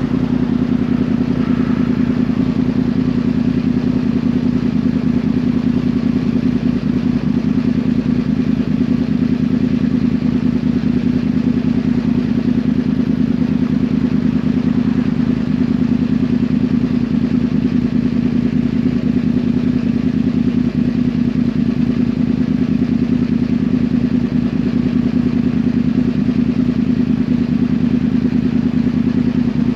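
2010 Yamaha R1's crossplane inline-four running through a Yoshimura exhaust, holding one steady, unchanging engine note with no revving.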